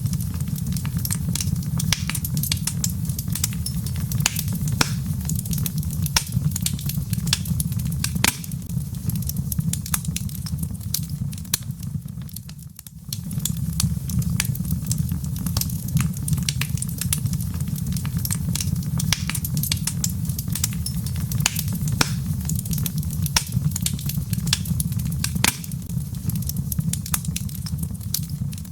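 Log fire burning in a fireplace: dense crackling and popping of the wood over a steady low rumble of the flames, with a brief dip in level a little before halfway.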